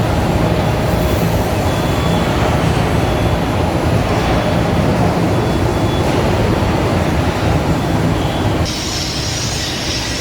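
Heavy truck hauling a heavy load, its engine and running gear making a loud, steady low rumble. Near the end the sound changes abruptly: the rumble eases and a steady high hiss comes up.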